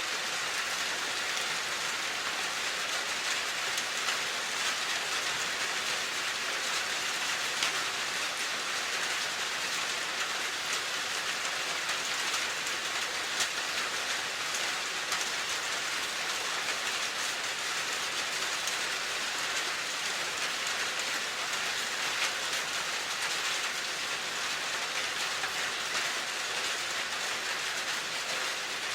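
Steady rain falling: an even hiss peppered with many small drop clicks, unchanging throughout.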